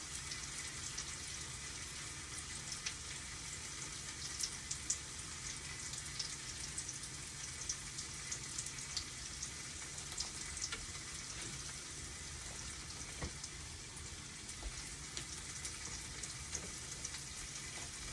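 Food frying in a pan: a steady sizzle with scattered small pops and crackles as it browns.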